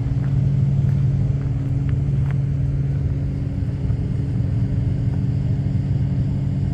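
Big truck's engine running steadily with a low, even hum that holds one pitch throughout.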